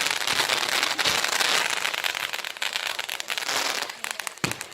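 Fireworks crackling: a dense, rapid crackle of many small pops that thins out near the end, with one deeper bang just before it stops.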